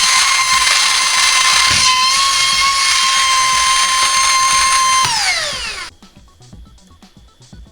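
A toy car's small electric motor running flat out on high voltage: a loud, steady high-pitched whine with a hiss. About five seconds in, the pitch slides down as the motor spins down and stops.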